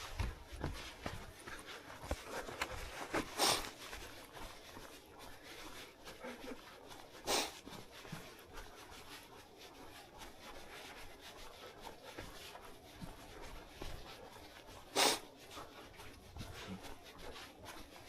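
Footsteps on a dirt trail trailing off over the first few seconds, then low rustling with three short, sharp brushing noises at irregular intervals, typical of a body-worn camera and clothing being rubbed or handled.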